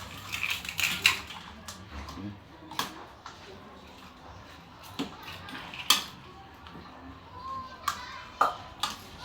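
Kitchen utensil clinking against a bowl while raw chicken is mixed with egg: a handful of sharp, irregular clinks a second or two apart.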